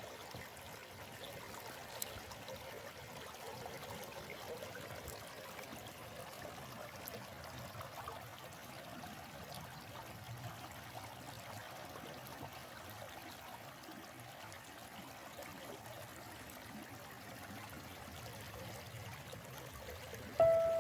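A forest stream flowing steadily, a soft, even trickling of running water. Music with struck notes comes in right at the end.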